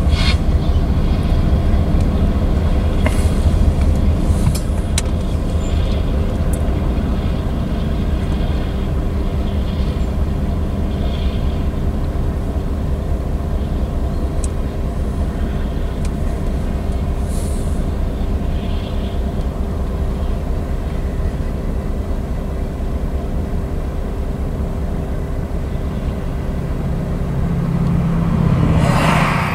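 Tank cars of a freight train rolling past close by: a steady heavy rumble of steel wheels on rail with a faint steady hum and occasional sharp clicks, swelling briefly louder near the end.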